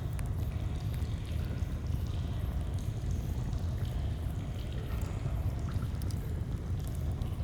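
A stream's steady, low sound of running water, with scattered small campfire crackles over it.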